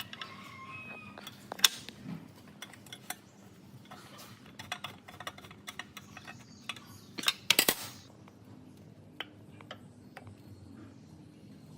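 Metal parts and hand tools clinking and tapping as they are handled in workshop repair work: scattered sharp clicks, one loud one about a second and a half in and a quick run of them a little past halfway.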